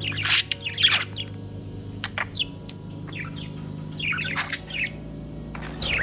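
Pet budgies chattering, with short, sharp squawks and chirps coming in quick clusters over a steady low hum.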